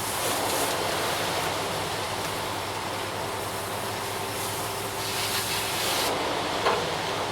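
Ready-mix concrete truck running during the pour: a steady diesel engine and drum rumble with a hiss of noise over it, and a single sharp knock near the end.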